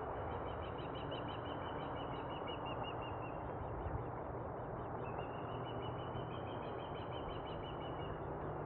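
A songbird sings two trilled phrases of rapid repeated notes, each lasting about three seconds, with a short pause between them. Under the song is a steady background hiss.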